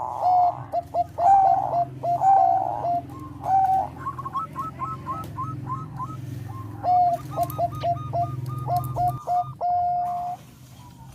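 Zebra dove (perkutut bangkok) singing: quick runs of short staccato coos, some notes higher and clipped, ending in one longer held note. A low steady hum runs beneath until near the end.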